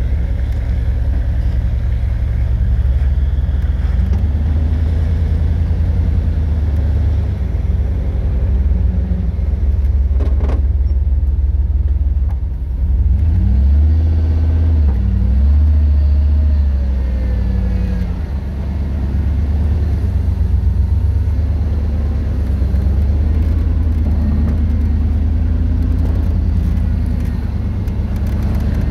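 1995 Jeep Grand Cherokee's 5.2-litre V8 engine running at low revs under load as the lifted Jeep crawls up a steep climb, the revs rising and falling about halfway through.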